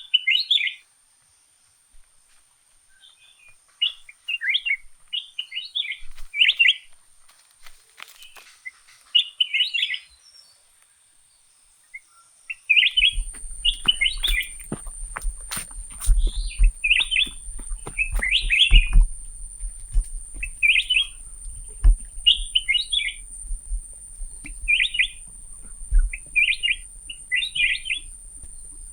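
Songbird chirping in short, repeated phrases every second or two over a faint steady high whine. About halfway through, a low rumble with scattered clicks joins in.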